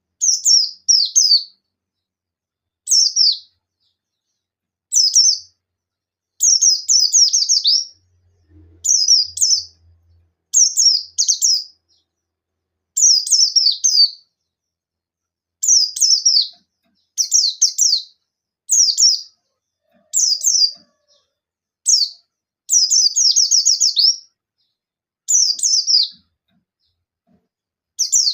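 Pleci buxtoni white-eye singing in short, rapid phrases of high, falling chirps, one every second or two, with some longer bursts. It is the sharp, repeated 'nembak' calling that keepers use to provoke other white-eyes into answering.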